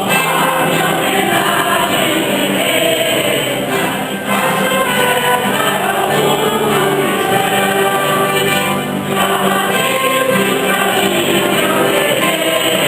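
A church choir of mixed voices singing a hymn together, continuously and without pause.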